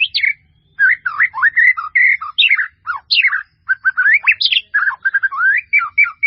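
A bird singing close by: a rapid, unbroken run of varied chirps and whistles, sliding up and down in pitch.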